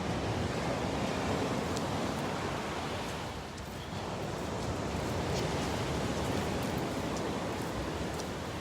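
Ocean surf at high tide, a steady rushing wash of breaking waves that eases briefly about three and a half seconds in, then swells again.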